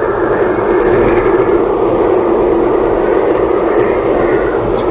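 Steady road and wind noise inside the cabin of a Toyota Tank compact minivan driving at highway speed.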